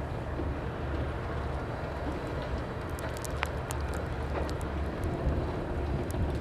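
Freight train rolling past: a steady low rumble of wheels on rails, with scattered sharp clicks from about three seconds in.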